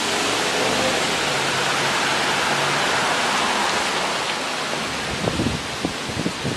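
Strong tropical-storm wind gusts making a loud, steady rushing noise, with wind buffeting the microphone in a few low thumps near the end.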